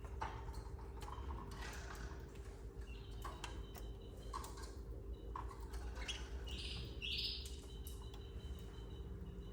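Canaries at the nest: scattered short chirps and light clicks and scratches of movement, with two brief higher bursts of sound a little past the middle. A steady low electrical hum runs underneath.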